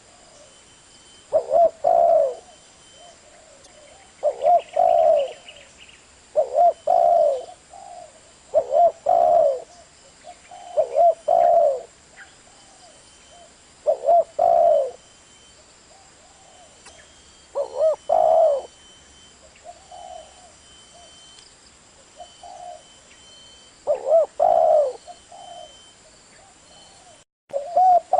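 Spotted dove cooing: a low, rolling coo phrase repeated every two to three seconds, with a few longer pauses between phrases.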